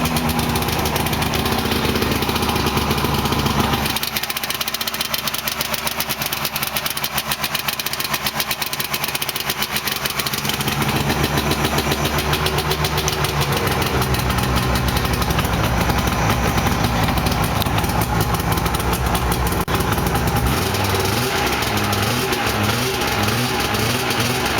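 1998 Yamaha XT 500 snowmobile's two-stroke engine running on its own just after a cold start, idling with a steady fast firing beat whose low note changes a few times.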